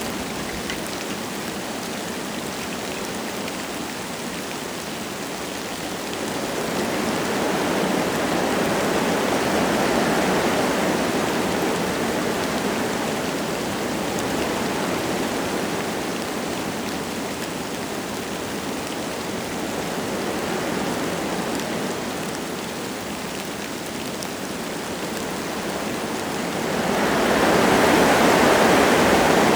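Wind gusting through forest trees, a steady rush that swells and eases in slow waves, with the loudest gust near the end. Light rain falls through it.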